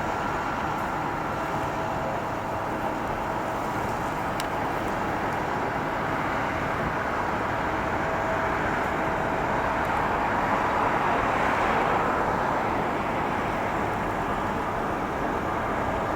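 Jet airliner engines: a steady rushing roar with a faint whine, swelling to its loudest about eleven seconds in, then easing off as the plane passes.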